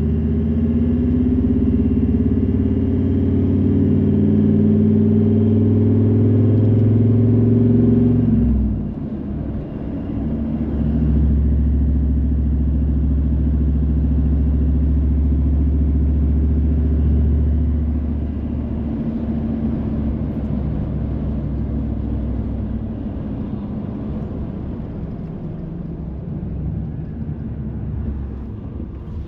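A car driving on a wet road, with engine and tyre noise. The engine pulls steadily for about eight seconds, then drops off suddenly. It settles into a steady low rumble, then gradually quietens as the car slows, over a faint hiss from the tyres.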